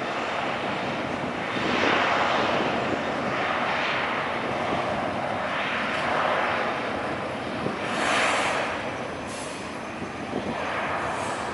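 Airliner jet engine noise, a steady rush that swells and fades every second or two.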